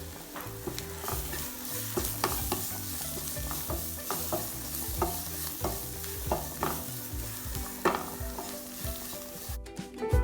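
Food sizzling as it fries in hot oil in a pan, with a utensil clicking and scraping against the pan now and then.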